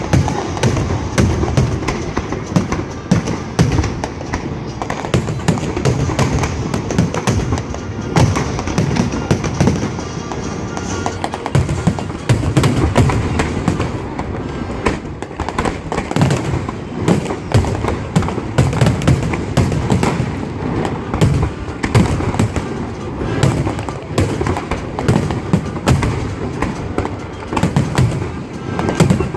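Fireworks display with many closely spaced booms and bangs going off continuously, with music playing alongside.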